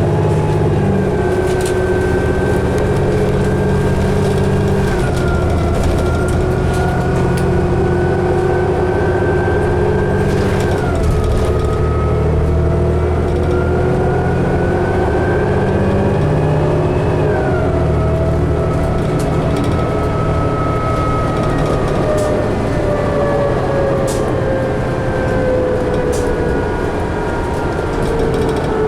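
Inside a 2011 New Flyer D60LFR articulated diesel bus under way: a steady engine rumble with a drivetrain whine on top. The whine climbs slowly and drops sharply three times, about five, eleven and seventeen seconds in.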